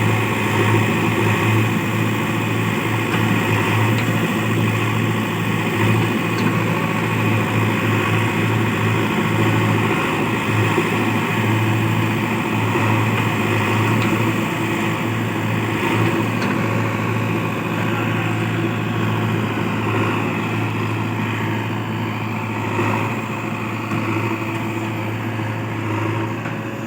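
Heavy diesel engine of earth-moving equipment running steadily at an even speed, a constant low hum.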